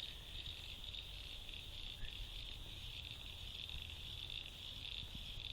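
Insect chorus: a continuous high-pitched trill that holds steady throughout, with a faint low rumble underneath.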